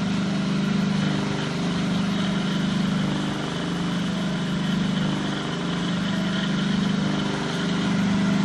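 Magnetic power transmission test bench running steadily: a machine hum whose tones sit low and waver slightly in a slow cycle about every second and a half.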